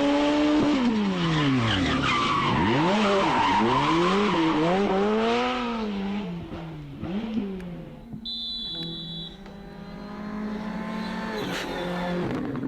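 Rally car engine revving hard, its pitch swinging up and down through throttle lifts and gear changes, with tyres skidding on the loose surface through the first half. A short high beep about eight seconds in, then a steadier engine note that climbs again near the end.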